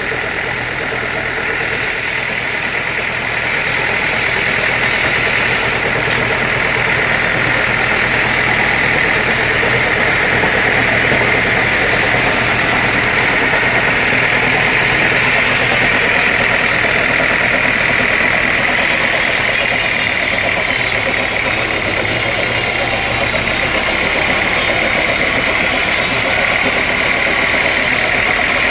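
Sawmill saw machinery running steadily: a continuous high-pitched whine over a steady low engine hum, getting slightly louder a few seconds in.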